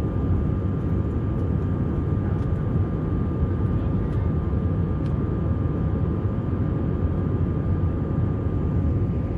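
Steady low rumble of jet engines and rushing air inside the cabin of an Airbus A321, with a faint steady whine running through it.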